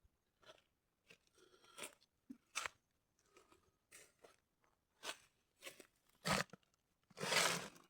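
Small dry crunches and crackles at irregular intervals, with a longer, louder crunch near the end, as of dried Zanthoxylum rhetza (chingit) fruits being crunched and broken open for their seeds.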